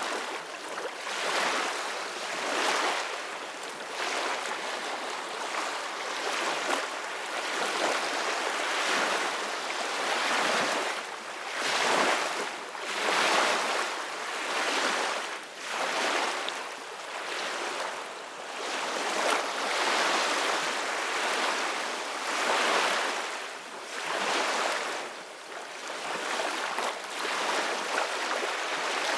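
Ocean waves washing in, a continuous hiss of surf that swells and recedes in repeated surges every couple of seconds.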